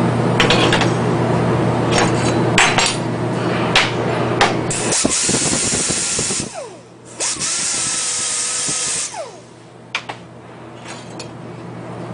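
Workshop machinery: a steady low hum with scattered sharp clicks, broken around the middle by two loud bursts of hissing, each about two seconds long.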